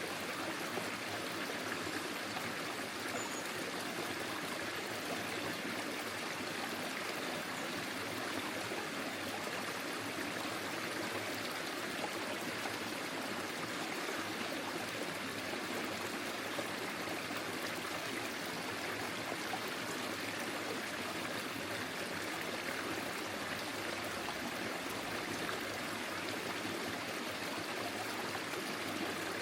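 Forest stream flowing: a steady rush and trickle of water over stones.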